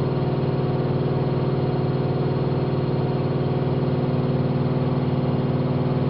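AEG Lavamat 5210 front-loading washing machine spinning its drum fast in a spin cycle: a steady, even hum.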